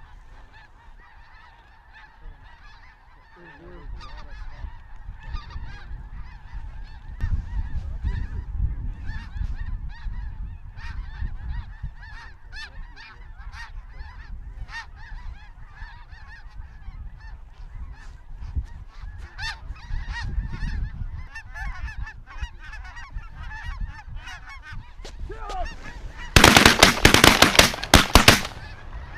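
A large flock of snow geese calling overhead, a dense, continuous chorus of honks and yelps. About 26 seconds in, a rapid volley of shotgun blasts cuts through it.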